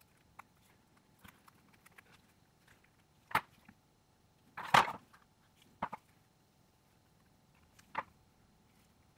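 Scattered small clicks and taps of hand tools and phone parts being handled during disassembly, with a short clatter about halfway through as the loudest.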